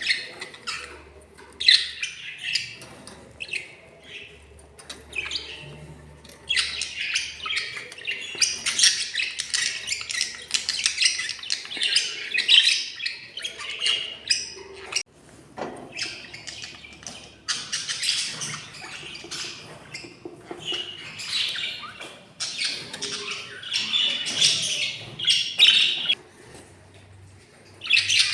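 Budgerigars chirping and chattering in stretches of several seconds, with short pauses between them.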